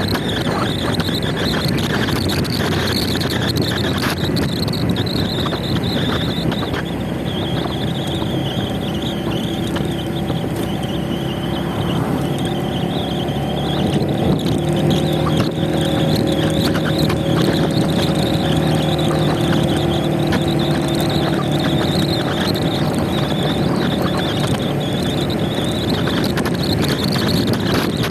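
Motor scooter on the move: wind rushing over the microphone along with engine and road noise. About halfway through a steady engine drone comes up and holds.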